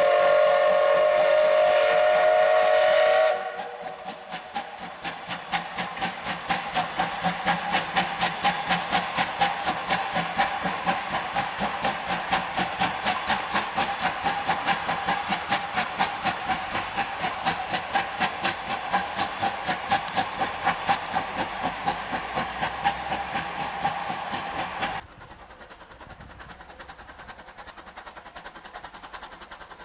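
JNR Class C12 steam locomotive C12 66 blowing its steam whistle, a chord of several tones that stops about three seconds in. Then its exhaust chuffs in a fast, even rhythm as it works past, until the sound drops suddenly about 25 seconds in, leaving fainter train running noise.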